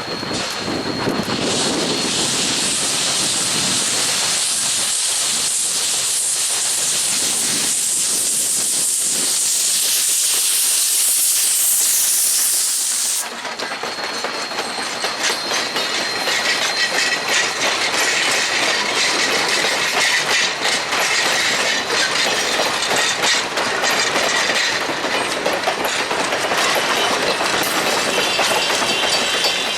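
Steam locomotive venting a loud, steady hiss of steam that stops abruptly about halfway through, followed by a train passing with rhythmic clattering and a faint high ringing tone.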